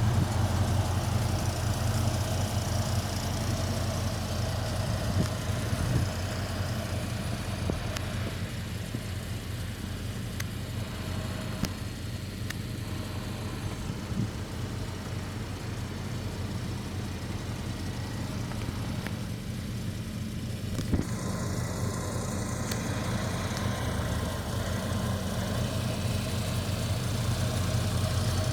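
1985 Ford Mustang GT's 302 V8 idling steadily.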